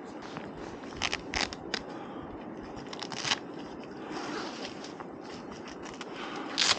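Footsteps crunching in snow, irregular, with a handful of sharp crunches and the loudest one near the end.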